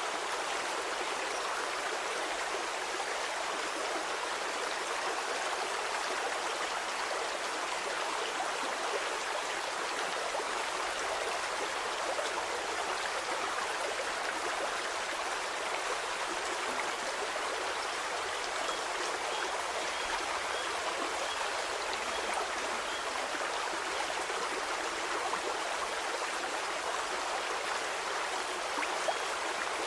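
A stream of flowing water, a steady even rush and babble with no deep rumble.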